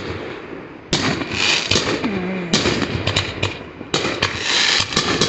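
Fireworks going off: three sudden bursts about one, two and a half and four seconds in, each followed by dense rapid crackling.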